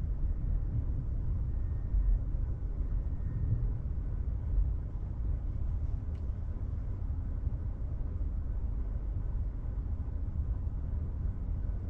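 Steady low rumble inside the cabin of an electric Tesla Model 3 rolling slowly over wet pavement: tyre and road noise with no engine sound.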